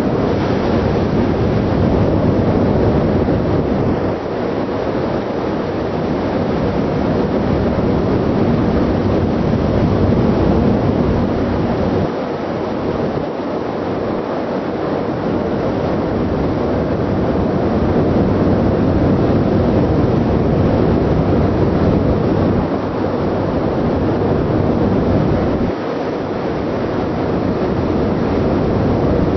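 Steady drone of a ship's engine and exhaust, with wind rumbling on the microphone. The low rumble drops away briefly four times.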